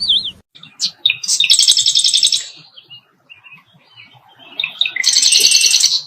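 Bird singing: a quick whistled note at the start, then two loud rapid trills of high repeated notes, each under a second long, about three seconds apart, with softer chirps in between.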